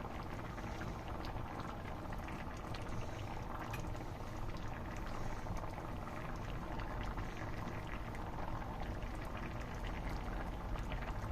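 Seafood paella simmering in shrimp broth in the pan: a steady bubbling with small scattered pops, the rice liquid at a boil over the gas burner.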